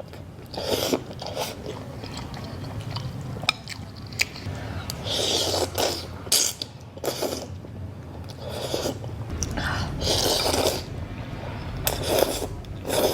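A person eating noodle soup close to the microphone: irregular slurps and chewing, with a few sharp clicks that may be the spoon or chopsticks on the bowl.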